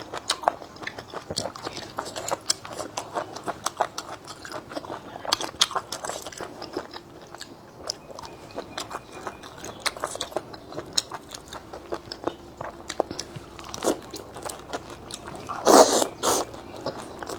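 A person eating close to the microphone: steady chewing and biting with many short, crisp crunches, and one louder noise near the end.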